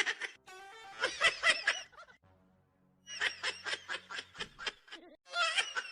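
A person laughing in several runs of quick, repeated bursts, over faint music.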